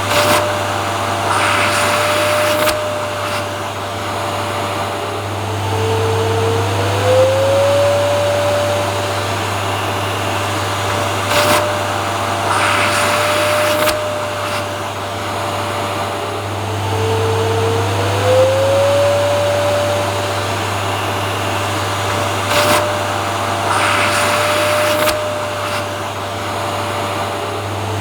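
Vacuum cleaner running steadily, a constant airflow rush under a motor hum and whine. About every eleven seconds the whine dips and glides back up, with a brief hissy flare, in a repeating loop.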